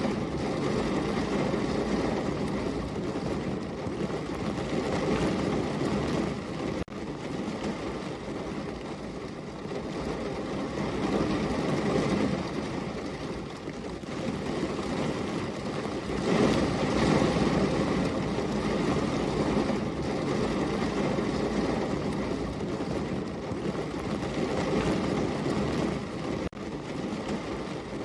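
Heavy rain falling steadily, a dense low rushing wash that swells and eases. It breaks off for an instant twice.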